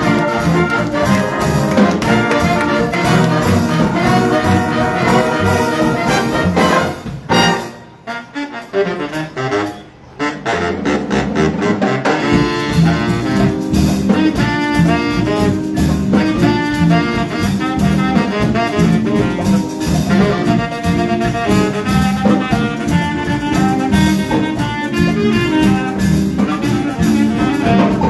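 High school jazz big band playing live, with trumpets, trombones and saxophones over drum kit. About seven seconds in the band drops out briefly to a sparse, quieter passage, then the full ensemble comes back in.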